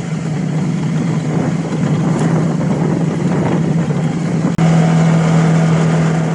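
Suzuki V-Strom 650's V-twin engine running at a steady cruising speed under wind and road rush. The sound drops out for an instant about four and a half seconds in, and the engine note is steadier after that.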